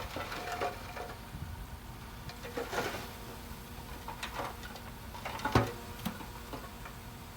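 Earthmoving machinery running as a steady low rumble, with scattered clanks and knocks. The sharpest thump comes about five and a half seconds in.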